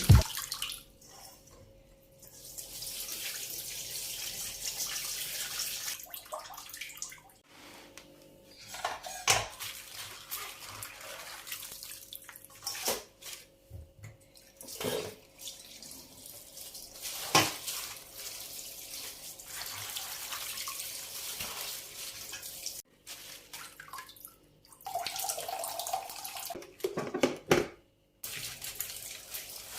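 Kitchen tap running into a sink in several stretches with short pauses, with a few knocks and clatters of things being rinsed and handled under the water.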